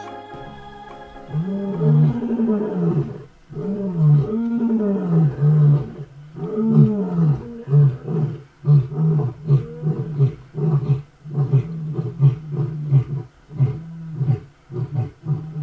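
Lion roaring. It opens with three long moaning calls that rise and fall in pitch, then runs into a long series of shorter grunts at about two a second that grow weaker toward the end.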